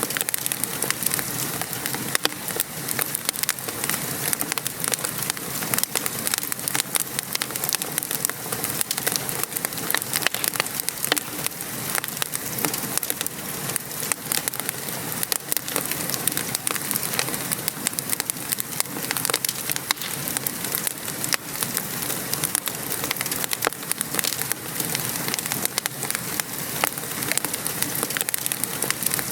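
Steady rain pattering, mixed with the dense snapping crackle of a wood fire.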